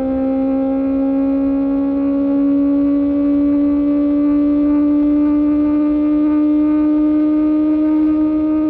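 QJMotor SRK600 inline-four engine through an Austin Racing exhaust, running at high revs under steady throttle, its pitch climbing slowly and evenly as the bike gathers speed in one gear.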